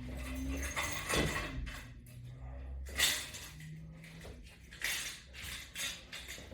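Crunches being done with resistance-band straps and hand grips: short bursts of breath and movement noise come about every two seconds, under a faint low hum.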